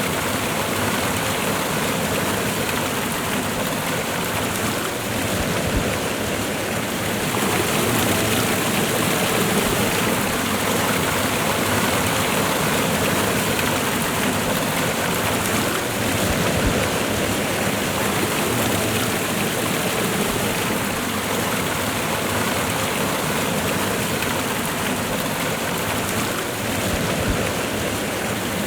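Waterfall and river water rushing steadily, a dense even wash of sound.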